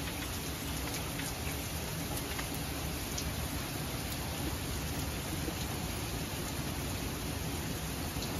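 Steady rain falling, an even hiss with a few single drops ticking close by now and then.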